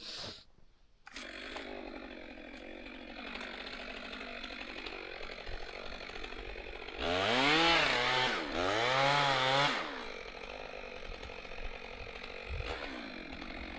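Chainsaw engine comes in about a second in and runs steadily, then its pitch rises and falls twice in a louder stretch in the middle before settling back to a lower, steady run, while felling a tree.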